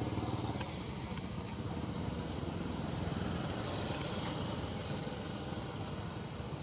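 An engine running steadily with an even low throb.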